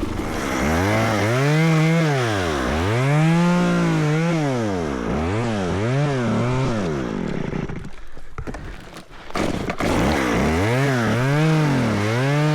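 Chainsaw revved repeatedly, its pitch rising to a steady top and falling back each time. The engine drops away briefly about two-thirds of the way through, then revs up and down again.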